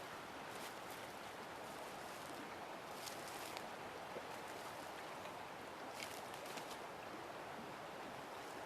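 Steady rushing of river water, with a few faint clicks or rustles about three seconds in and again about six seconds in.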